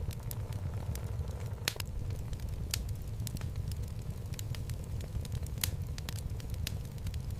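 Wood fire burning in a fireplace: a steady low rumble of flames with scattered sharp crackles and pops of burning logs, a few louder pops at irregular moments.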